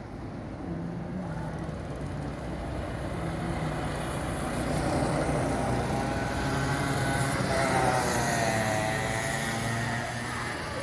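Go-kart engine running, growing louder with its pitch rising and falling from about four seconds in. It is loudest near eight seconds, then eases off.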